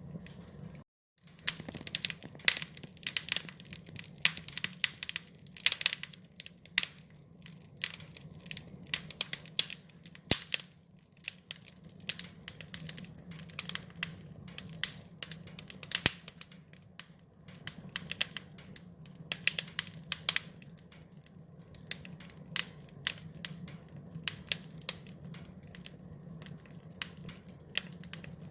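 Wood fire crackling, with dense irregular snaps and pops over a steady low rumble. The sound cuts out completely for a moment about a second in.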